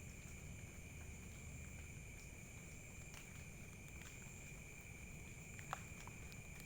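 Faint night insect chorus: two steady, even high-pitched buzzing tones, with a few soft clicks near the end.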